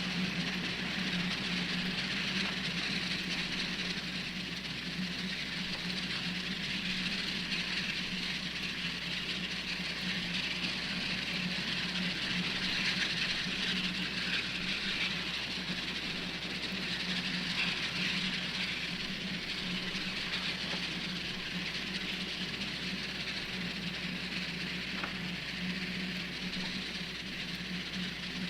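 Steady hiss with a low hum underneath, unchanging throughout, with one faint tick near the end.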